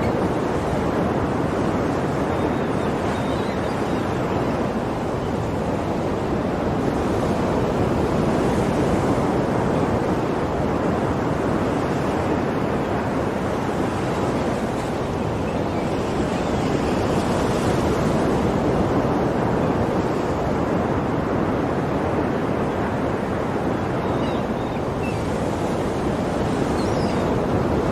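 Ocean waves breaking and washing on a shore, a steady surf with gentle swells every few seconds.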